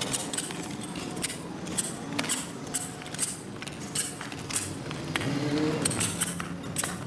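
Metal hand tool scraping and clinking on wet pavement in repeated short strokes, about two a second.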